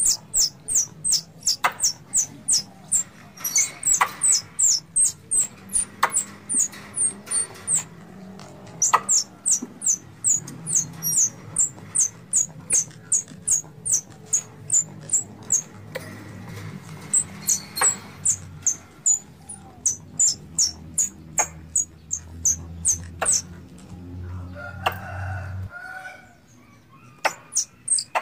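Squirrel calling sound used as a hunting lure: long runs of short, sharp, high-pitched chirps that drop in pitch, about three to four a second, broken by brief pauses.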